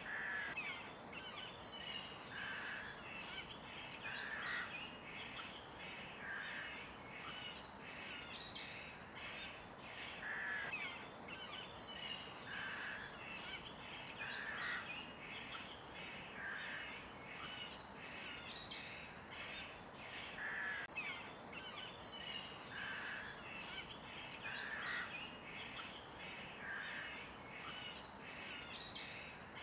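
Several songbirds chirping, with quick high chirps and short sweeping notes throughout, a lower call repeating about every two seconds, over a faint steady hiss.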